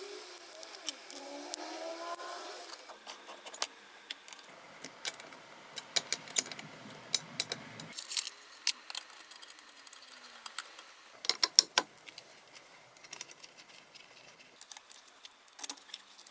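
Scattered small metallic clicks and clinks of hand tools and engine parts as the cylinder head is fitted onto a scooter's two-stroke engine, irregular and sharp, some louder clusters about eleven and twelve seconds in.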